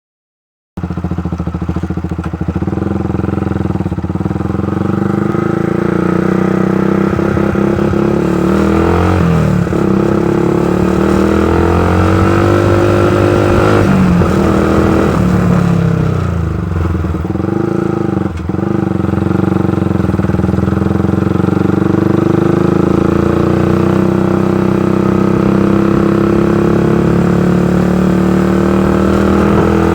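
Motorcycle engine running under way, picked up by a phone in a handlebar holder that shakes with the engine's vibration. The engine pitch drops and climbs again a few times, around 9, 14 and 17 seconds in, as the bike slows and speeds up or changes gear.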